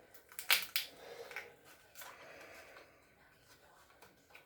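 A few sharp clicks and knocks in the first two seconds from parts being handled during a refrigerator repair, then softer handling noise.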